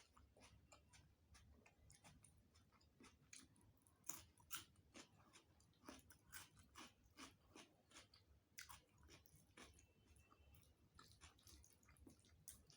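Faint, close-miked chewing of food, with quick irregular wet mouth clicks and smacks several times a second, a few louder ones around the middle.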